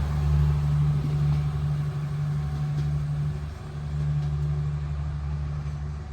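Diesel locomotive engine running steadily, a low engine hum that dips briefly about halfway through.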